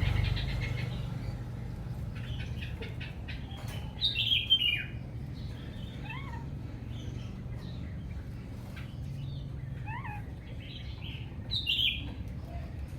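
Oriental magpie-robin calling: scattered short chirps and whistled notes, with two louder, downward-slurred calls about four seconds in and near the end, over a steady low hum.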